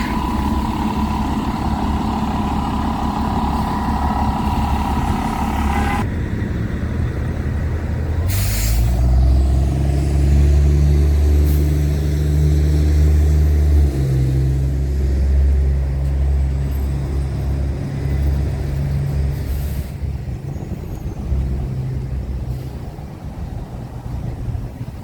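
Heavy diesel vehicle engine running close by, with a steady whine over a rumble for the first few seconds, a sharp hiss about eight seconds in, then a loud deep engine drone that fades near the end.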